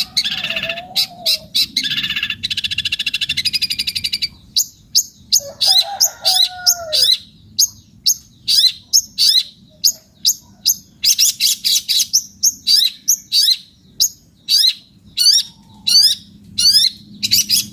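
Cendet (long-tailed shrike) singing loudly: a fast, harsh chattering trill for the first few seconds, then a long run of sharp, high, repeated call notes, one or two a second. A lower wavering whistle comes in twice, about a second in and again around six seconds in.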